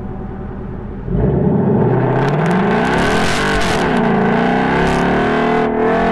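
Ford Mustang's engine idling at the start line, then launched hard about a second in at the start of an autocross run. It revs up rising in pitch, dips briefly and climbs again about three and a half seconds in, and keeps pulling at high revs.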